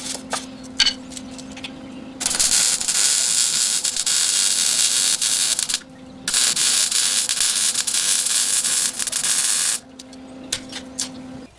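Two long bursts of steady hiss, each about three and a half seconds, with a short break between. Before them a faint steady hum and a few clicks.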